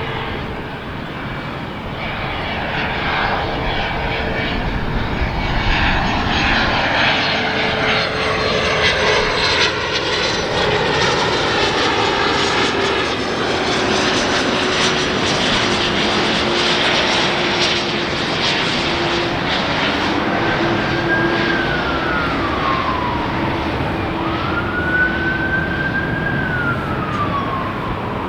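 Jet airliner passing overhead: a loud engine rush with a steady whine that slowly sinks in pitch as it goes by. In the last third a siren wails, rising and falling about three times.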